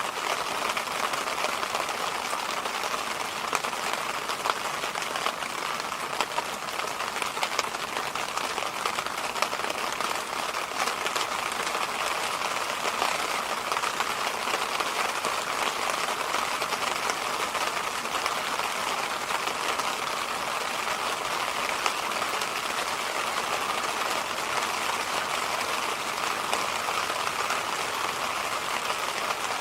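Electric fan running steadily: an even rushing hiss, strongest in the mid-range, with a light fine crackle through it.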